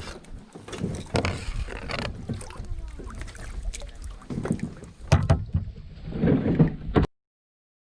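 A canoe being paddled on a lake: irregular water splashes and sloshing with sharp knocks. The sound cuts off suddenly about seven seconds in.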